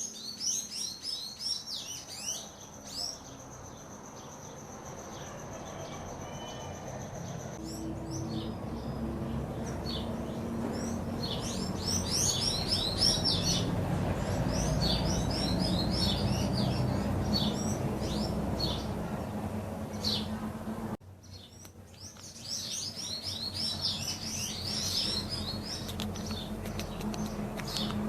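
Wild songbirds chirping and singing, rapid runs of high, quick notes with several birds overlapping, over a low background rumble; a steady thin high whine sits under the birds for the first several seconds.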